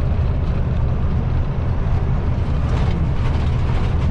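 Kenworth T660 semi truck's diesel engine and drivetrain heard from inside the cab, a steady low rumble under road noise. The truck is held in 12th gear (8 low) because the transmission has lost its top gear.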